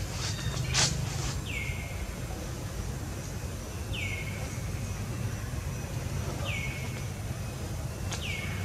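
A bird repeating a short call that glides downward, about every two and a half seconds, over a steady low background rumble. A sharp click about a second in.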